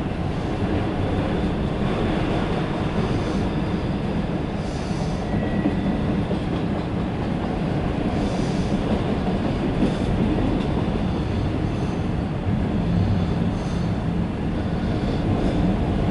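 Empty autorack freight train rolling past: a steady rumble of wheels on rail.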